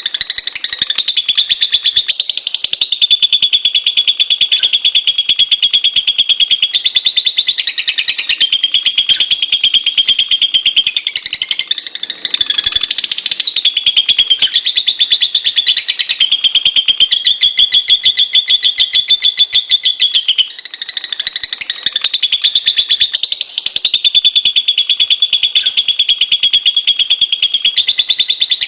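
Lovebird chattering: a fast, unbroken stream of high-pitched chirps and trills, with short breaks about twelve and twenty seconds in.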